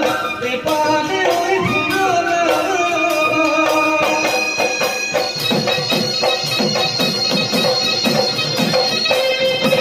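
Bihu folk music: a reedy wind instrument playing a stepping melody, then holding a long note from about halfway, over a steady drumbeat.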